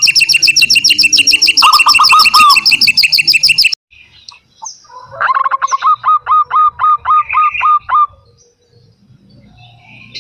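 Bird calls: a fast, high-pitched chattering trill that cuts off abruptly a little over a third of the way in. After a short pause comes a series of about a dozen short, evenly repeated cooing notes, the staccato song of a zebra dove (perkutut).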